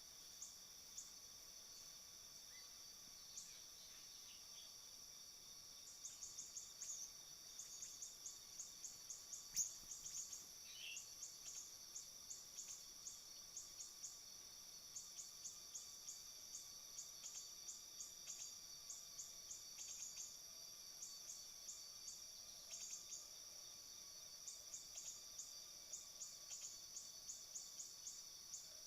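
Faint, steady high-pitched insect drone. From about six seconds in, runs of quick, high chirps keep repeating over it, and one sharp click about ten seconds in is the loudest sound.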